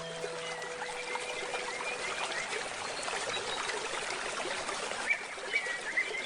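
Forest stream trickling steadily, with short bird chirps scattered through and a quick series of them near the end. A handpan note rings on and dies away over the first couple of seconds.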